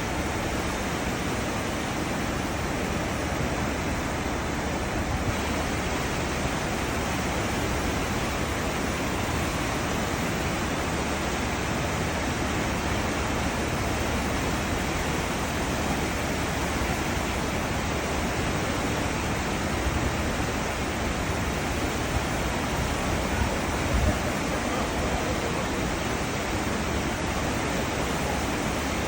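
Cruise ship's wake churning and rushing alongside the hull, a steady even roar of white water with the ship's low rumble beneath.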